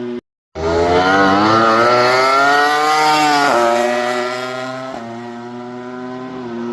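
MotoGP race motorcycle engine at high revs, its note climbing for about three seconds as it accelerates, then falling sharply about three and a half seconds in and running on at a steadier, lower pitch. A brief dead gap of silence just after the start.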